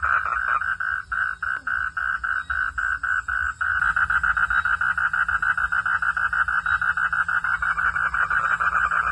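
Frogs calling in rapid pulsed croaks, about six a second. About four seconds in, more voices join and the calls merge into a dense, continuous pulsing chorus.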